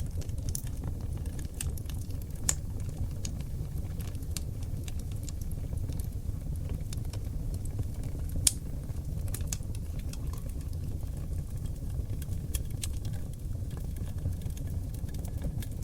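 Wood fire of seasoned oak logs burning in a fireplace: a steady low rumble of flame with irregular crackles and sharp pops, one louder pop a little past halfway.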